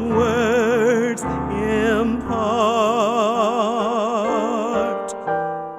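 A solo singer holding long notes with a wide vibrato in a slow worship song, over sustained keyboard accompaniment. The voice stops about five seconds in, leaving held piano chords.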